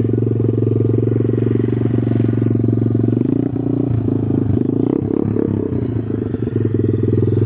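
125cc single-cylinder four-stroke pit bike engine idling steadily in neutral. Its sound turns rough and uneven for a few seconds in the middle, then steadies again.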